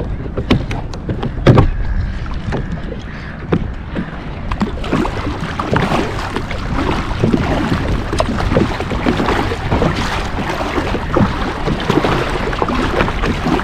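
Kayak being paddled through choppy water, with paddle strokes splashing and water slapping the hull. The loudest splash comes about a second and a half in, and from about five seconds in the splashing turns into a dense, continuous wash.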